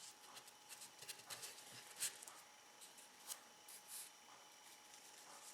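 Faint, scattered small clicks and rustles of fingers handling a moist tobacco-leaf wrapper, pressing it around the cigar's head; the sharpest tick comes about two seconds in.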